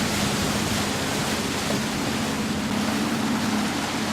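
A boat's motor running at a steady speed, a constant low hum, under an even rush of water and wind.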